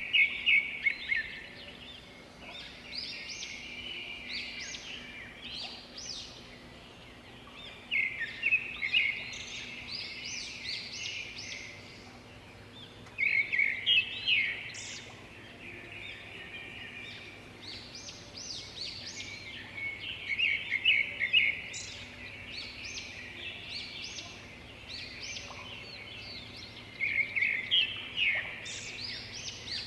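Birdsong: a loud phrase of quick, high notes repeating about every six to seven seconds, with softer chirps between.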